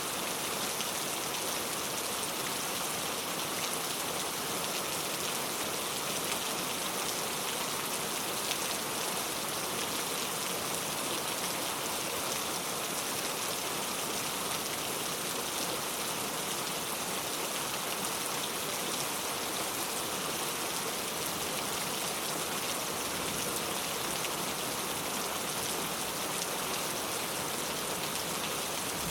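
Heavy rain falling steadily: an even, continuous hiss of drops without letup.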